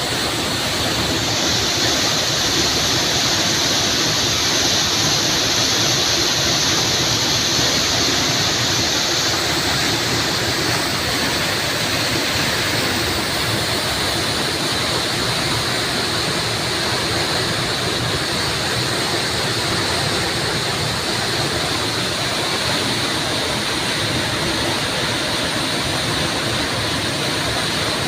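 Waterfall: a steady rush of falling water splashing and churning, with no let-up.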